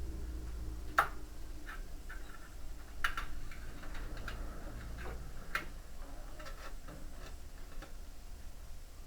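Scattered light clicks and taps of hand work on a washing machine's tub and drum, the sharpest about a second in. A low hum underneath stops about five and a half seconds in.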